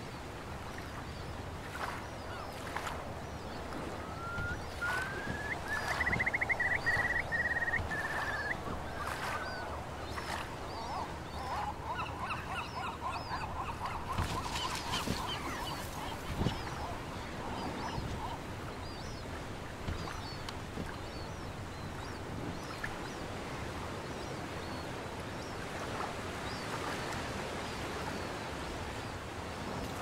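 Wild birds calling over a steady background noise. About five seconds in comes a rapid run of calls that rises and then falls in pitch, then a lower run of repeated calls, with faint high chirps scattered throughout.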